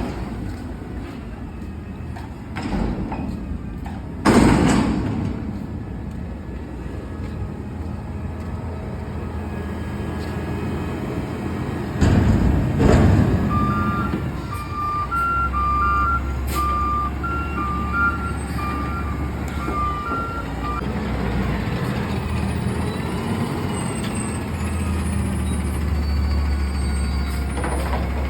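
Front-load garbage truck running, its engine drone growing louder about halfway through, with a few knocks early on and a loud clattering bang around the middle. A run of short beeps at two alternating pitches follows the bang for several seconds.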